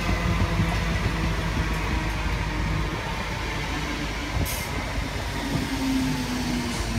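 A Greater Anglia Class 321 electric multiple unit pulling into the platform, with another train alongside. A steady low rumble with a humming tone that slides down in pitch near the end as the train slows, and a sharp click about four seconds in.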